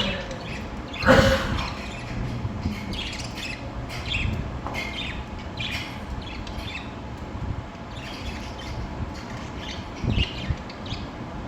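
Budgerigars chattering in short, repeated chirps, with one louder squawk about a second in.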